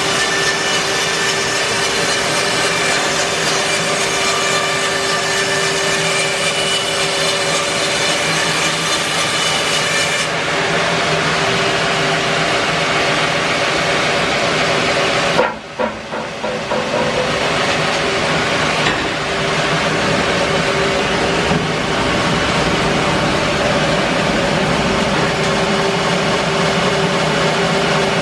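Bandsaw mill running and sawing English larch: a loud, steady machine noise with several held tones. About ten seconds in the high hiss drops away, and about halfway the level dips briefly before the running goes on.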